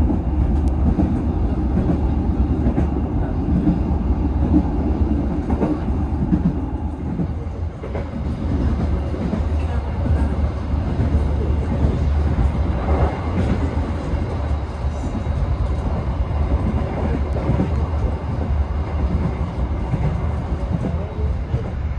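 Steady low rumble of the Gumarang passenger train running along the line, heard from inside the carriage, its wheels running on the rails.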